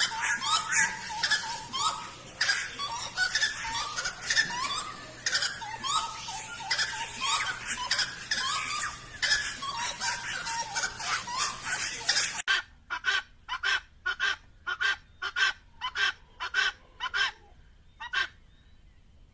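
Birds singing together, many overlapping repeated rising calls. About two-thirds through it cuts abruptly to a single short call repeated about three times a second, which stops shortly before the end.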